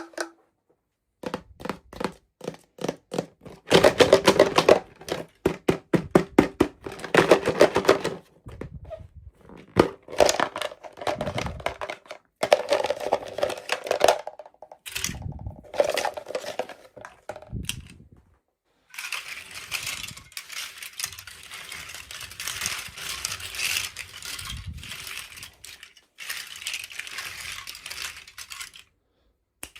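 Toy packaging handled and opened by hand: a quick run of small plastic clicks and knocks, then steady crinkling of wrapping from about twenty seconds in.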